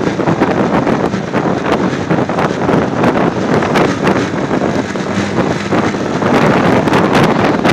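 Wind buffeting the microphone over vehicle and road noise while travelling, a loud, rough rush with frequent crackling gusts.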